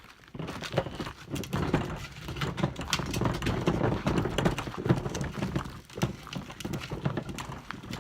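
Wheeled plastic recycling bin rolled over pavement: its wheels give a continuous rumble with many irregular clattering knocks.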